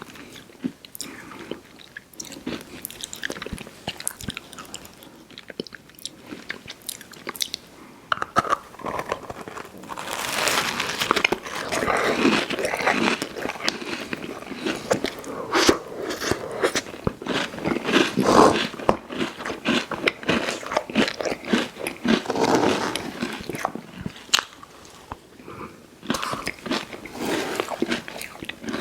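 Close-miked mouth sounds of a person biting and chewing a fast-food dessert pie: many small crunches and wet chewing clicks, getting busier and louder from about a third of the way in, then easing off near the end.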